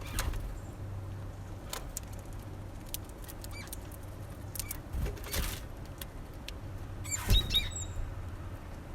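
Small finches at a seed feeder, a common redpoll and a bullfinch: scattered taps and clicks of pecking and shuffling on the feeder, with a few short high chirps, the loudest cluster about three-quarters of the way in. A steady low hum runs underneath.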